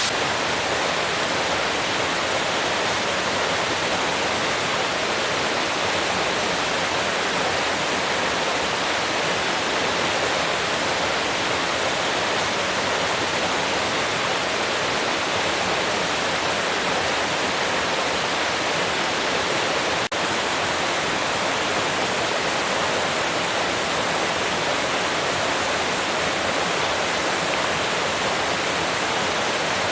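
Water of a waterfall in a mountain gorge pouring and splashing: a loud, steady rushing, with one brief click about two-thirds of the way through.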